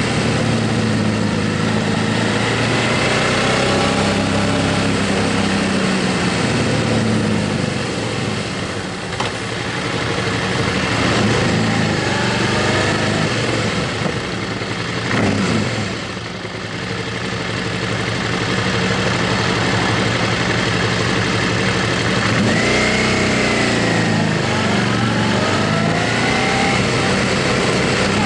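Motorcycle engine running under way, its pitch rising and falling with the revs several times, over a steady rush of wind noise.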